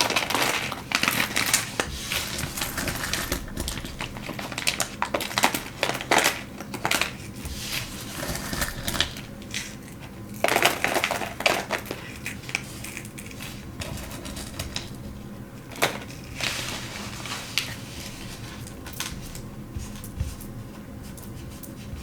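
Small plastic items and packaging being handled on a table: irregular sharp clicks and taps, with short bursts of plastic rustling about ten seconds in and again near sixteen seconds.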